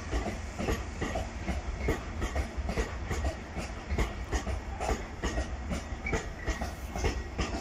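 Freight train of open-top coal wagons rolling past, its wheels knocking and clacking irregularly over the rail joints over a steady low rumble, with a few short high squeals now and then.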